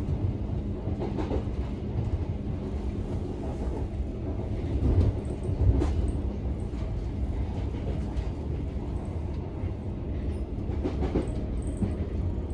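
c2c electric passenger train heard from inside the carriage, running at speed: a steady low rumble of wheels on track with a constant hum, and now and then a sharp click or knock from the wheels over the rails.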